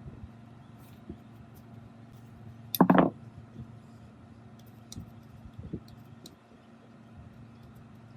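Scattered light clicks and knocks of handling, with one louder clatter about three seconds in, over a faint steady hum.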